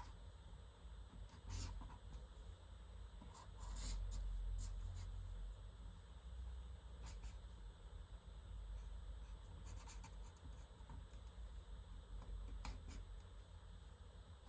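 Quiet sketching on paper: short, scratchy drawing strokes at irregular intervals, with a louder low rustle about four seconds in.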